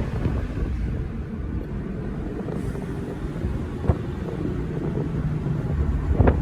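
Dodge 392 HEMI V8 with an aftermarket exhaust rumbling steadily at low revs, with wind on the microphone. Two short clicks, one about four seconds in and one near the end.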